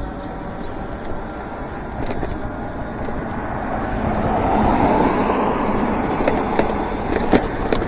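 Steady tyre and wind noise from an e-bike riding over a rough road, with a few sharp knocks and rattles from bumps. The noise swells about four to six seconds in.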